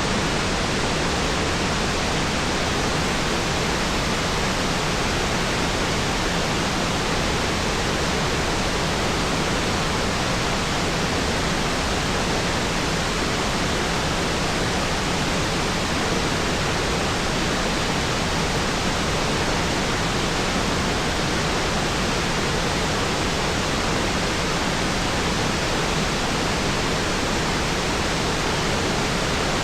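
Waterfall: a loud, steady, unbroken rush of falling water that never changes in level.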